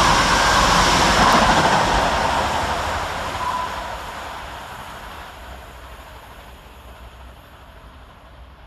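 Scotrail Class 170 Turbostar diesel multiple unit passing at speed, a loud rush of wheel and engine noise that peaks about a second in and then fades steadily as the train runs away.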